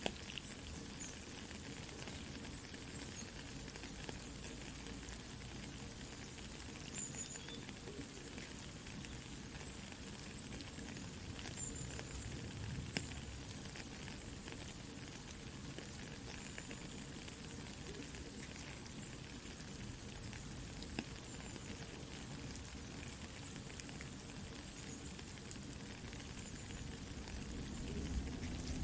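Soft, steady rain hiss mixed with a crackling wood campfire, with small scattered pops and snaps throughout.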